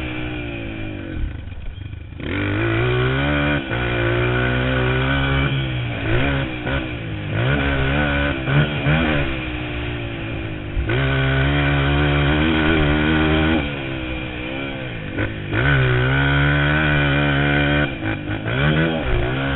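Motocross motorcycle engine revving hard and dropping back over and over, its pitch climbing and falling every second or two as the throttle is opened and shut.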